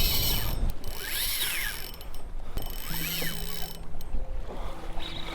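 Fishing reel drag buzzing out in about three separate runs as line is pulled off the spool, each run rising and then falling in pitch.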